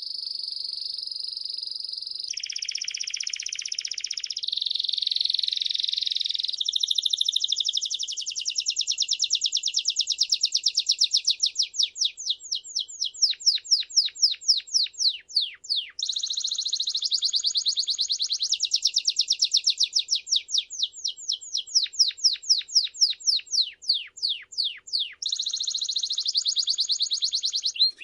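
A songbird singing continuously in a high, fast song: buzzy trills alternate with rapid runs of quick downward-sweeping notes, returning to a trill a little over halfway through and again near the end.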